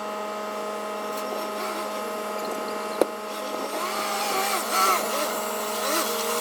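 Forklift running with a steady mechanical hum, a single sharp click about three seconds in, and wavering squeaky sounds over the hum in the second half.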